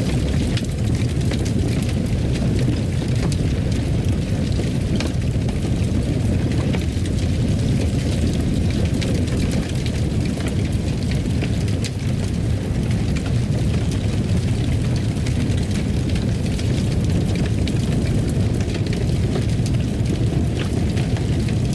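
Fireplace fire burning: a steady low roar with scattered sharp crackles and pops.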